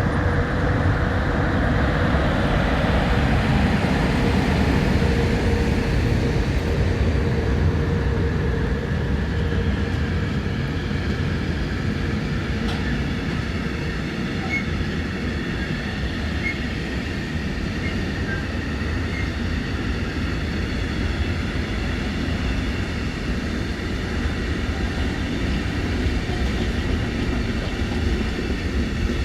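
A train running through a station, a continuous loud rumble with a steady tone that fades over the first several seconds.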